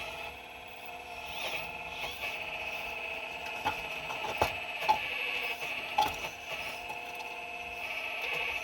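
A 4200XL excavator working: a steady high whine from its drive and hydraulics, with several sharp knocks as rocks strike the bucket, loudest about halfway through.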